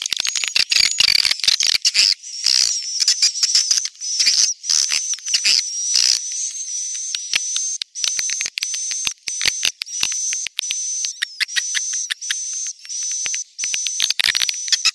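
Swiftlet lure-call recording ('suara panggil walet'): dense, rapid high-pitched swiftlet chirps and clicking twitters over a thin, steady high tone. It is the kind of call track played from a swiftlet house to draw the birds in to roost and nest.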